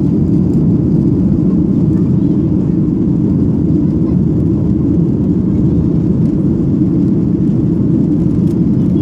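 Boeing 737-800's CFM56 jet engines running at high power during take-off and climb: a loud, steady low rumble that doesn't change.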